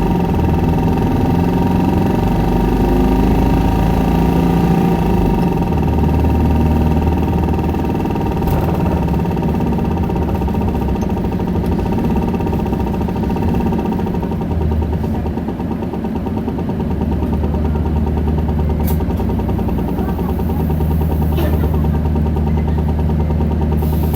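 Isuzu Erga city bus's turbo-diesel four-cylinder engine running as the bus drives, heard from inside the cabin, its note shifting with road speed and easing briefly about two-thirds of the way through. A couple of light clicks near the end.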